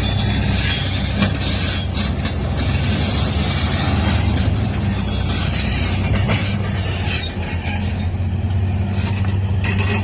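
Heavy road-construction machinery engines running steadily under load, with a few short clanks and knocks over the low engine sound.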